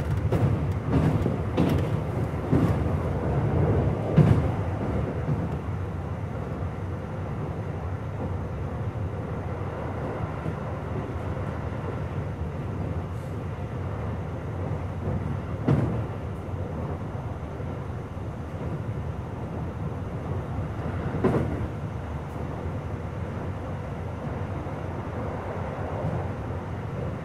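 Running noise heard inside a Keio 5000-series commuter train car: a steady rumble of wheels on rail with a few sharp rail-joint clacks over the first four seconds and two more single clacks later. A slight wheel-flat sound runs under it.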